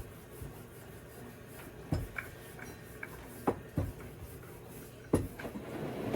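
A few short, sharp knocks and clicks of kitchen items being handled, spaced a second or more apart.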